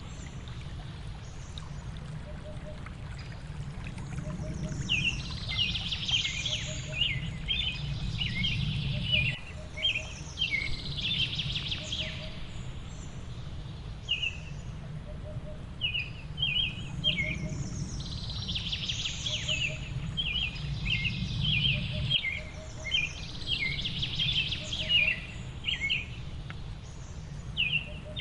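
Songbirds chirping in quick, dense bouts of high notes over a steady low rushing noise of falling water. A faint low note repeats about once a second underneath.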